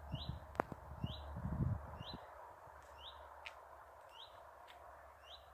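A bird whistling one short rising note over and over, about once a second, six times in all, the same note each time. A few sharp clicks and a low rumble come in the first two seconds.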